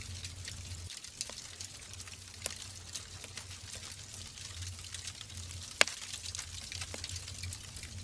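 Wood fire burning in a fireplace: a steady hiss with scattered crackles and sharp pops, one loud pop a little before six seconds in, over a low rumble.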